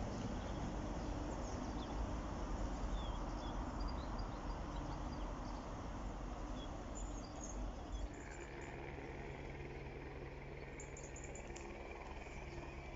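A low rumbling noise that fades over about eight seconds, then a steady hum with a higher held tone above it that breaks into short pulses near the end, with a few faint bird chirps.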